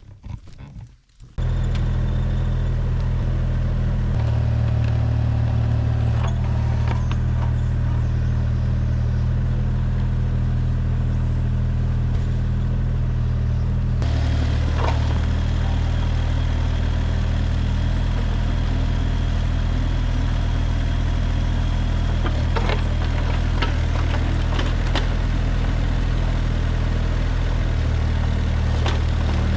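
Mini excavator's diesel engine running under work, starting abruptly about a second in and steady after that, its pitch shifting a little as the load changes. Scattered clanks and scrapes sound over it.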